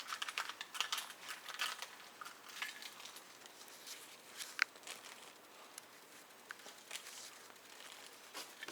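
Rustling and crinkling with many small sharp clicks, busiest in the first three seconds and sparser after.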